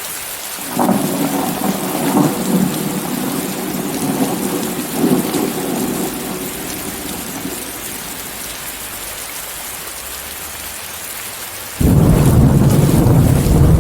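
Steady heavy rain hiss with rolling thunder rumbling from about a second in, fading out past the middle. Near the end a much louder, deeper thunder rumble breaks in suddenly and keeps going.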